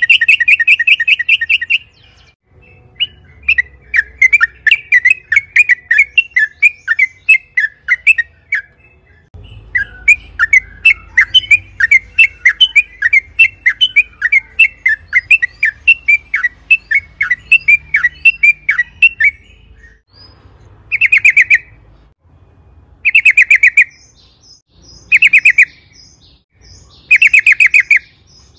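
Yellow-vented bulbul (trucukan) singing loud, bubbly runs of rapid notes. Long runs fill most of the time, then near the end come four short, fast-trilled bursts about two seconds apart.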